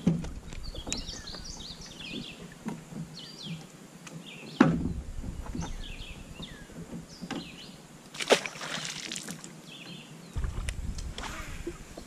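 Knocks and bumps on a fishing kayak with water sloshing against the hull; a few sharp knocks stand out, the loudest about halfway through and again about two-thirds through.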